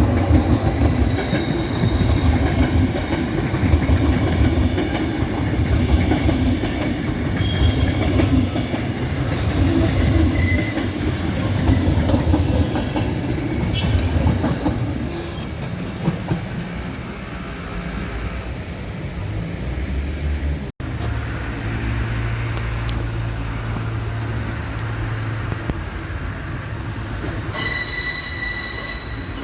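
Passenger train moving through a railway station: a loud low rumble and clatter of wheels on the rails, broken by a sudden brief dropout about two-thirds in. Near the end a high steady wheel squeal sets in.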